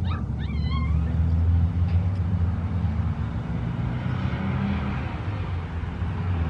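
Vehicle engine idling steadily with a low hum. In the first second there is a brief high, wavering call of a few short notes.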